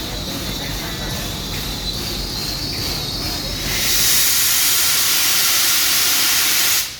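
Steam locomotive letting off steam: a steady hiss that swells into a loud blast of steam a little under four seconds in, then cuts off abruptly near the end.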